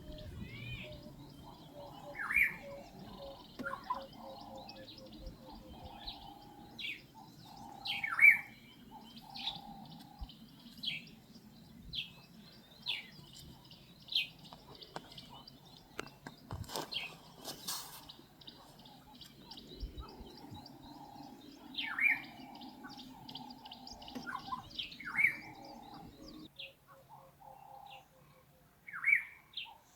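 Wild birds chirping and calling in the bush: short, sharp calls every second or two over a faint, steady background chorus of trills.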